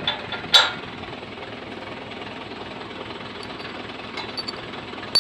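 Tractor diesel engine idling with a fast, even knocking rhythm. A sharp metal clank comes about half a second in and another at the very end: hitch pins going into the harrow's linkage.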